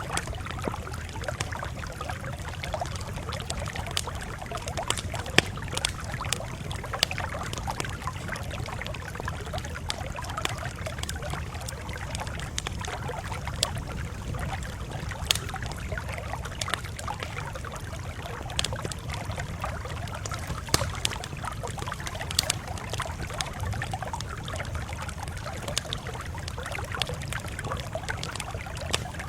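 Campfire crackling steadily, with scattered sharp pops and snaps over a low, even rumble.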